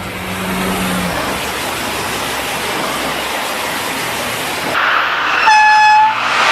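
Train passing with a loud, steady rush, then a short high-pitched horn blast of about half a second near the end.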